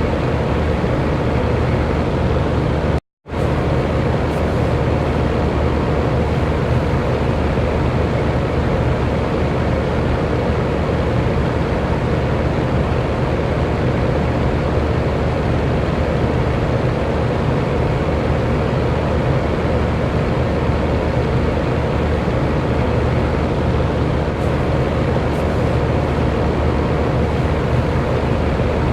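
Electric fan running with a steady whooshing rush of air and a faint low hum. The sound cuts out completely for a split second about three seconds in, then carries on unchanged.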